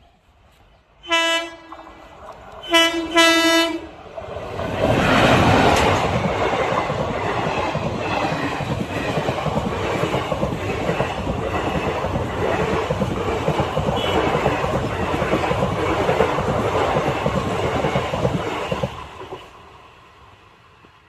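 An Indian Railways train sounds its horn twice, a short blast then a longer one. It then passes close by at speed with a steady clickety-clack of wheels over rail joints, and the noise drops away sharply as the last coach goes by.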